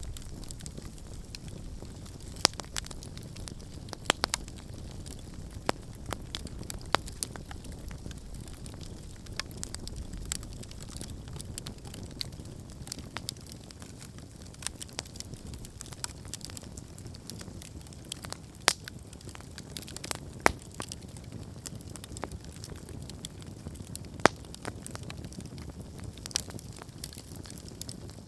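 Wood campfire burning, with a steady low rumble of flames and frequent irregular sharp crackles and pops, a few louder snaps among them.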